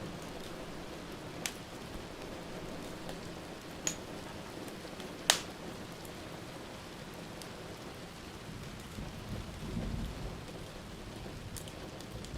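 Steady rain hiss with a low rumble of thunder swelling about nine to ten seconds in, and a few sharp pops from a wood fire, the loudest a little past five seconds in.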